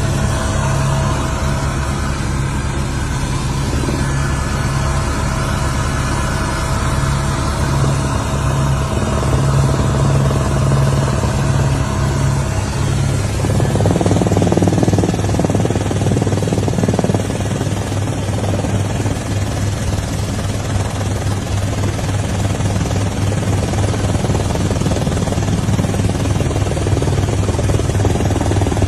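An engine running steadily, with a constant low hum and a noisy wash over it; the sound shifts about halfway through.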